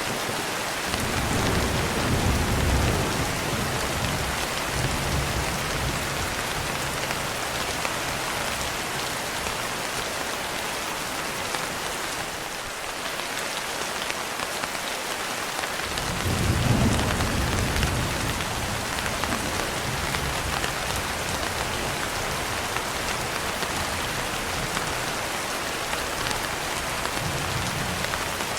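Steady rain pattering on a window, with rolling thunder: a low rumble starting about a second in and fading over several seconds, and a second one about halfway through.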